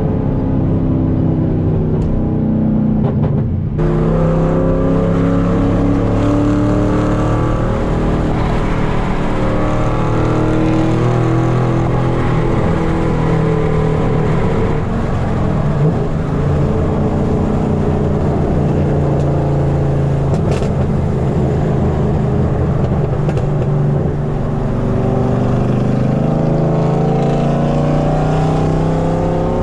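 Loud exhaust of a 5th-gen Camaro SS's LS3 V8 with long-tube headers, heard from inside the car while driving. Its pitch rises and falls several times as the revs change, then climbs again near the end.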